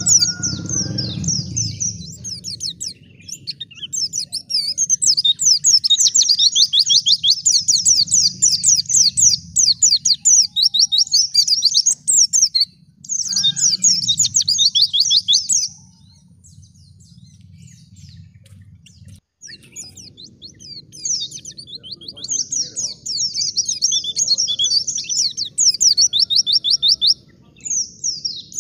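White-eye (pleci) singing: long runs of fast, high, chattering twitters. The song breaks off for a few seconds a little past the middle, then starts again. A faint low hum runs underneath.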